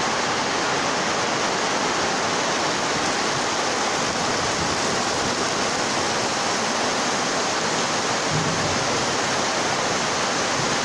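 Heavy rain and pouring water: a steady, even rush of noise.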